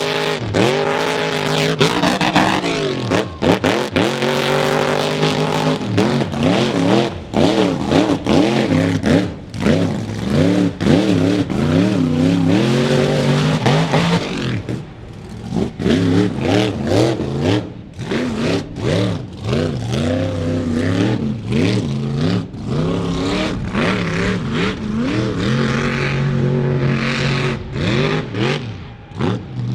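A truck engine revving hard, its pitch rising and falling over and over with brief lifts off the throttle.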